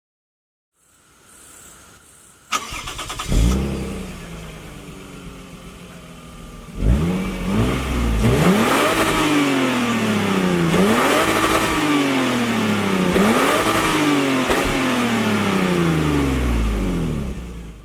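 Toyota Aristo's 2JZ-GE 3.0 L inline-six cranks briefly and catches about three seconds in, then runs steadily. About seven seconds in it goes to full-throttle acceleration: the revs climb and drop back four times as the five-speed automatic upshifts, then ease off at the end.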